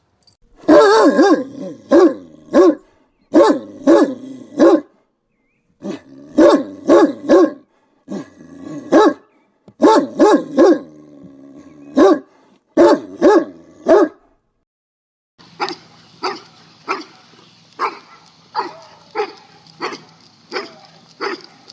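Big guard dogs barking angrily, in quick runs of three or four barks with short gaps between. About two-thirds of the way through, the barking turns fainter and more evenly spaced, over a steady background hum.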